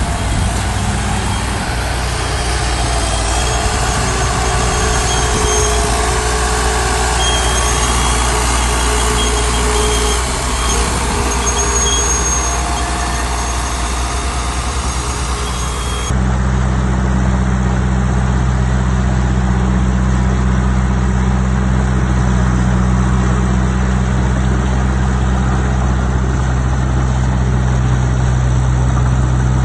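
Heavy diesel engines of earthmoving machinery running steadily under work. About halfway through the sound changes abruptly to a steadier, deeper engine hum.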